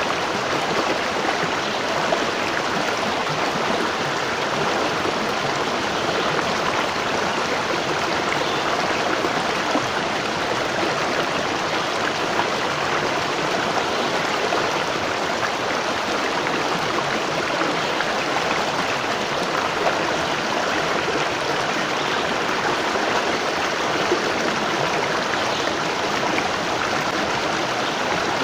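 Waterfall, water falling and rushing in a steady, even rush.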